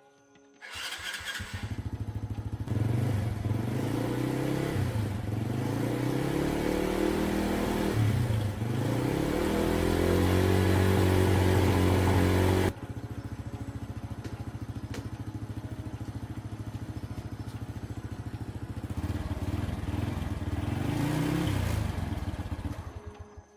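1980s Honda motorcycle engine, just restored, running and being revved: it comes in about a second in, rises and falls in pitch several times and holds high revs, then drops suddenly to a steady idle. It is revved again near the end before dying away.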